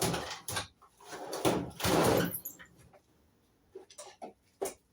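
Rummaging for a tool: two scraping, sliding noises, the second longer and louder, as of a tool drawer or box being pulled open and tools shifted. Then several short sharp clicks and taps near the end.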